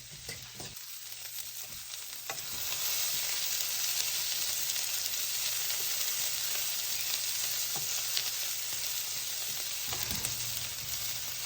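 Onions sizzling as they fry in a pan, the sizzle growing louder about two seconds in and then holding steady, with a few faint clicks.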